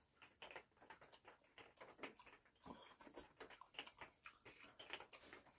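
Faint eating sounds: a person chewing a mouthful of pasta and steak, with irregular small wet clicks and smacks several times a second.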